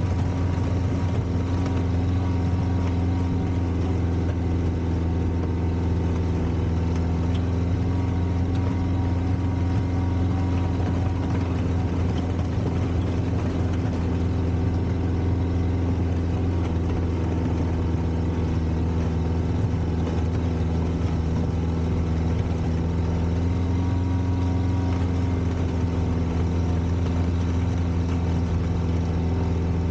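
Four-cylinder Volvo petrol engine of a 1960s Kalmar baggage tractor running at a steady, even speed, with no revving.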